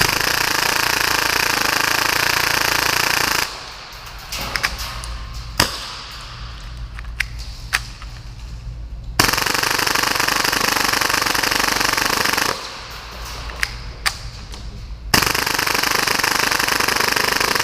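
Full-auto gas-blowback airsoft pistol (a 30-round-per-second Tokyo Marui Hi-Capa) firing three long bursts of about three seconds each, a rapid continuous rattle of shots. A few scattered single pops fall in the gaps between the bursts.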